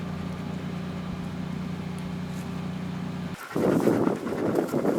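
A steady low mechanical hum, like a motor running, stops abruptly about three and a half seconds in. After it comes a louder rumble of wind buffeting the microphone.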